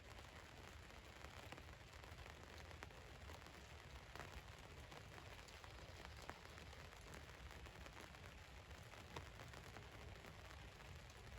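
Rain falling on the roof of a van, heard faintly as a steady hiss with scattered single drops ticking throughout.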